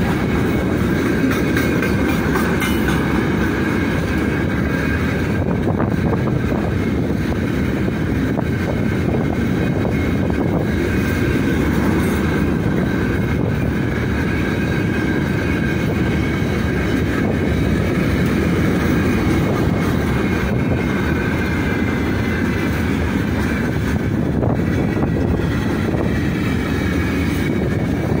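Freight train of open gondola wagons rolling past close by: a steady, loud rumble of steel wheels on the rails, with a faint high whine running over it.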